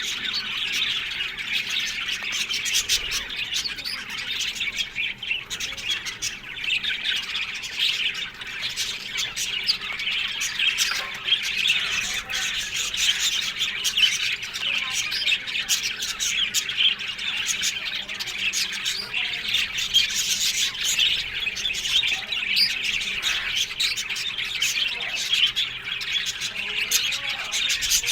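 A colony of budgerigars chattering, chirping and squawking together in an aviary: a dense, continuous mix of many overlapping calls.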